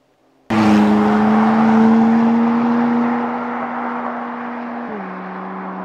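McLaren 675LT Spider's twin-turbo V8 under acceleration. It cuts in abruptly and loud about half a second in, its pitch creeping up and its loudness falling off as it pulls away. An upshift near the end drops the pitch.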